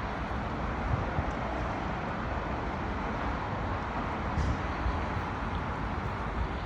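Steady wind buffeting the microphone outdoors, a low, uneven rumble under a constant hiss, with a background of road traffic.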